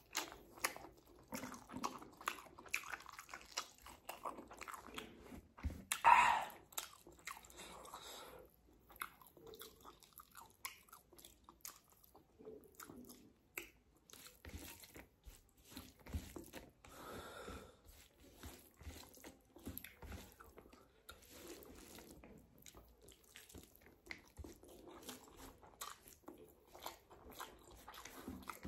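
Close-up mouth sounds of a person chewing egg curry and rice, a steady run of short clicks, with one louder sound about six seconds in.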